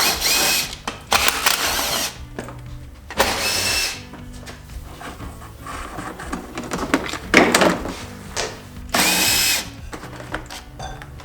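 Handheld power driver whirring in four short bursts, backing out bolts as the dirt bike is taken apart, over background music with a steady beat.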